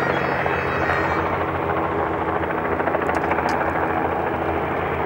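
Twin piston engines of a Partenavia P68 running steadily, a loud, unbroken drone.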